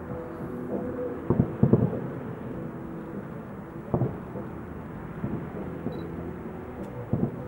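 Fireworks salute shells bursting as deep booms at uneven intervals, a pair close together about a second and a half in, one at about four seconds and another pair near the end, over a steady background rumble.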